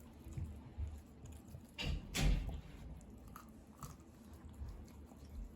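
Kai Ken dog chewing and crunching on a bear bone, with one loud crunch about two seconds in and a few smaller cracks after.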